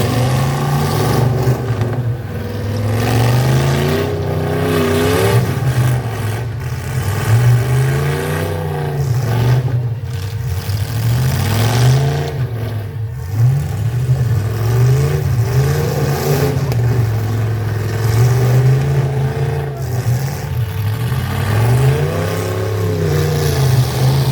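Engines of full-size pickup trucks in a demolition derby revving up and down over and over, several at once, their pitch rising and falling every second or two.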